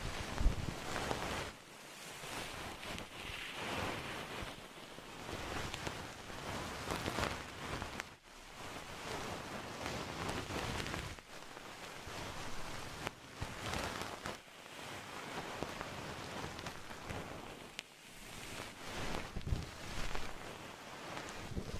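Close-miked rustling or brushing noise, swelling and fading every second or two.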